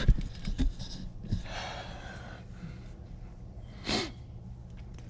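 Small clicks and knocks of hands handling wiring and tools, then a short sharp breath about four seconds in, over a steady low hum.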